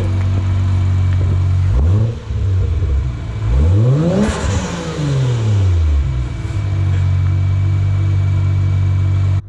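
Car engine idling, revved twice: a short blip about two seconds in, then a longer rev that climbs and falls back to a steady idle.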